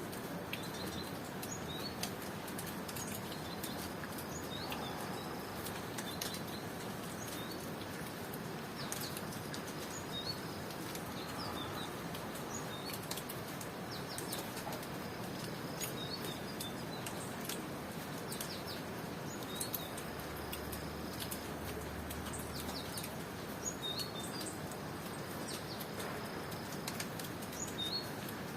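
Steady rain hiss with short high bird chirps and brief cricket trills recurring every few seconds, and scattered sharp drip clicks.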